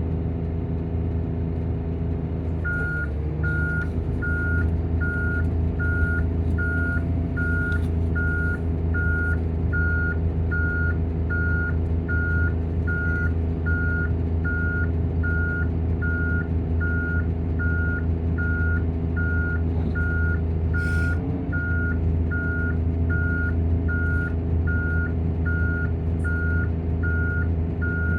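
Volvo coach's diesel engine and engine cooling fan running steadily. About three seconds in, a reversing beeper starts, sounding an even high beep about one and a half times a second. A brief hiss comes about three-quarters of the way through.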